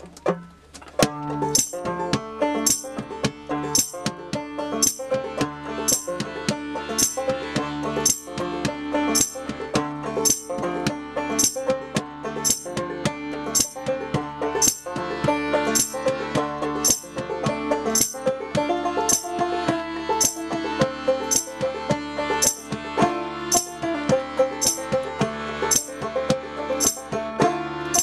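Banjo-driven folk-punk played live by a duo: banjo picking over a steady beat of crisp percussion hits about twice a second, starting about a second in.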